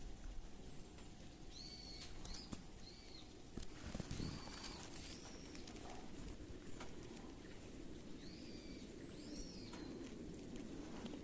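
Birds calling outdoors: short, high arched chirps, some coming close together in pairs, repeated every second or few seconds over a low steady background rumble.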